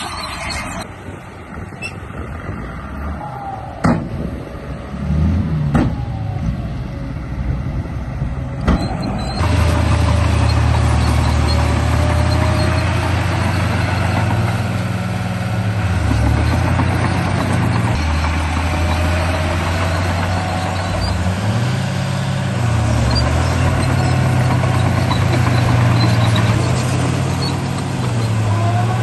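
RC bulldozer's engine sound running steadily with a deep drone, its pitch dropping and rising again several times. It follows a few sharp knocks and clicks in the first nine seconds.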